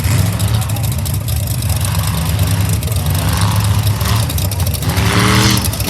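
Heavy truck engine running with a steady deep rumble; the sound briefly grows brighter about five seconds in.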